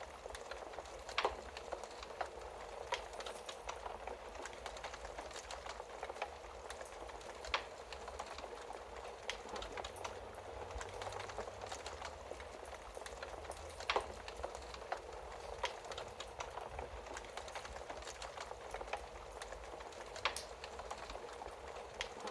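Wood fire crackling in a fireplace: a steady, dense crackle with four sharper, louder pops spaced roughly six seconds apart.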